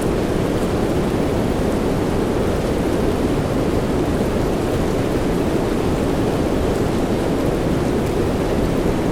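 Soft rain for sleep, a steady, even rushing noise weighted low, with no single drops or thunderclaps standing out.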